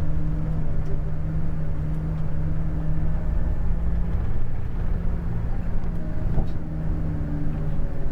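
Scania K410 coach on the move: its diesel engine holds a steady drone over low road rumble, with a brief knock a little past six seconds.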